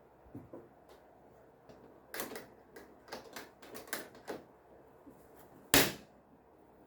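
A run of quick light knocks and clicks, then one loud knock near the end: objects being handled and set down on a hard surface.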